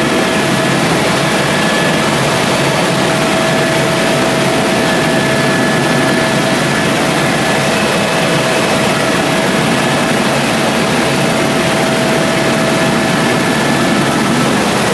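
Helicopter in flight heard from inside the cabin: a loud, steady rush of engine and rotor noise with a constant whine over it.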